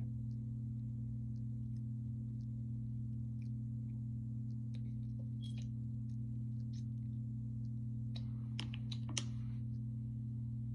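Steady low hum, with faint scattered clicks and a short cluster of sharper clicks and taps about eight to nine seconds in.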